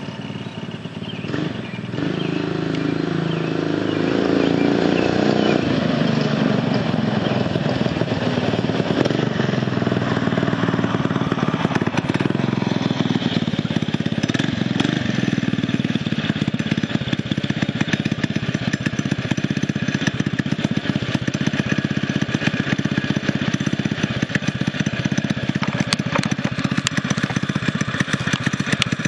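Predator 6.5 hp single-cylinder engine on a homemade mini bike, running through its new custom exhaust. It picks up about two seconds in, then pulls at a steady throttle.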